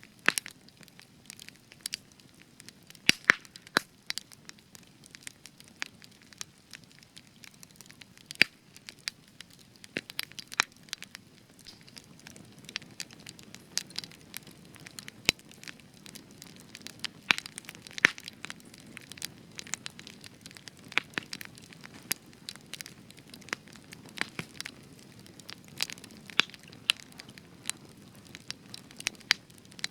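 Spruce wood campfire burning with constant irregular crackling and sharp pops over a low steady hiss of the flames; the spruce is what gives the extra crackle.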